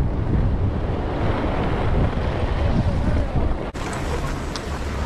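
Wind buffeting the microphone, a dense low rumbling noise. It breaks off abruptly about three and a half seconds in and resumes slightly quieter.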